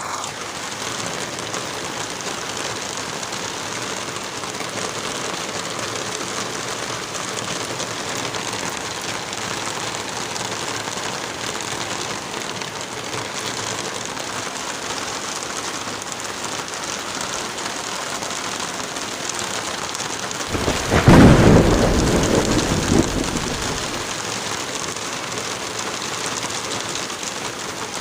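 Steady heavy rain, with one thunderclap about twenty seconds in: a sharp crack that rolls into a low rumble fading over a few seconds.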